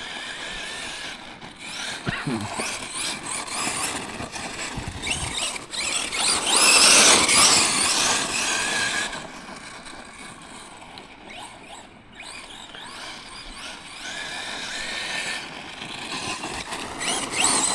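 Radio-controlled electric monster truck driving over rough ground, its brushless motor whining up and down in pitch with the throttle over the crunch of tyres. The loudest, noisiest stretch is about seven seconds in.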